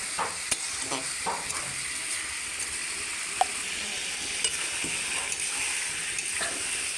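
Chicken pieces and fried potatoes sizzling in oil in a kadai while a spatula stirs and turns them. A steady sizzle runs under short, irregular knocks and scrapes of the spatula against the pan, the sharpest about halfway through.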